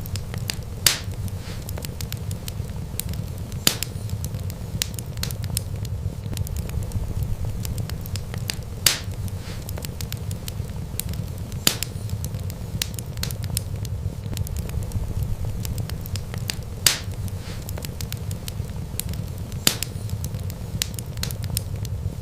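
Wood fire burning with a steady low rumble and constant crackling, broken by a sharp louder pop every few seconds.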